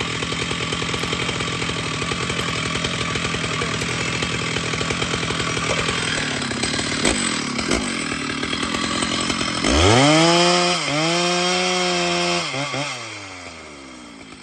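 Chainsaw running with a rapid rattle, then revved hard about ten seconds in: the engine note climbs steeply, holds high with a brief dip, and winds back down near the end.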